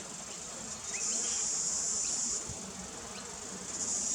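Insects buzzing outdoors: a shrill, high-pitched drone comes in about a second in, stops about a second and a half later, and starts again near the end.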